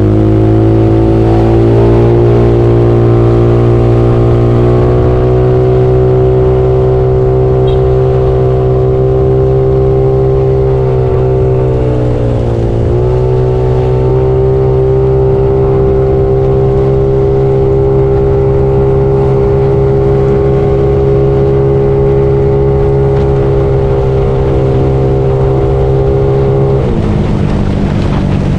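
Bored-up Yamaha Mio scooter's single-cylinder engine pulling up to speed, then held at a steady cruise. The revs dip briefly about twelve seconds in and drop again near the end.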